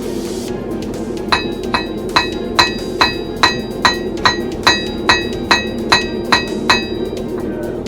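Blacksmith's hammer striking steel on an anvil: about a dozen evenly paced blows, roughly two a second, each with a bright metallic ring. A steady low roar runs underneath.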